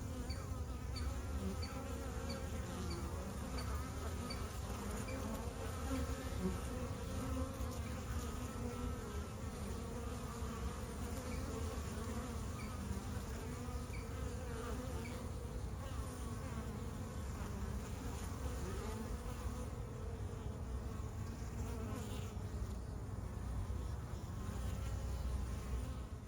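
Honeybees flying around a log hive: a steady, many-voiced buzzing hum whose pitch wavers as individual bees pass close.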